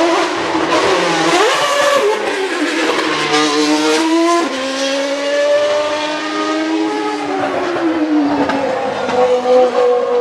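Racing car engine revving hard, its pitch repeatedly climbing and dropping as it is worked through the revs, then holding steady near the end.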